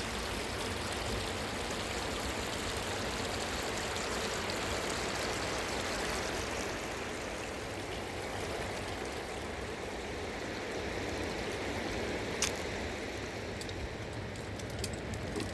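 Fast-flowing mountain river rushing steadily, with one sharp click about twelve seconds in.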